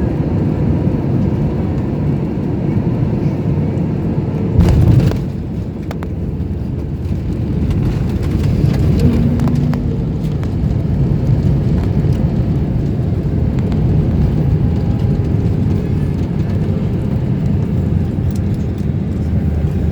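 Steady low rumble of airliner cabin noise during a landing, with one brief loud bump about five seconds in.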